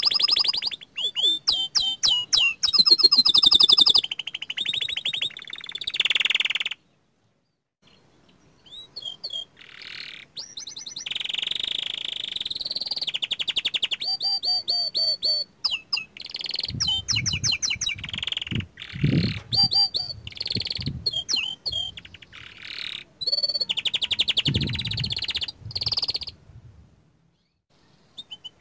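Young canary singing in long, rapid trills and chirping runs. The phrases are broken by short pauses, with a silence of about two seconds a quarter of the way in. A low rumble sits beneath the song in the second half.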